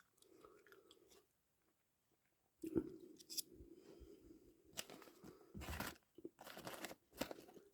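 Faint near silence, then a series of light, irregular clicks, knocks and rustles from small parts being handled on a workbench, starting about two and a half seconds in.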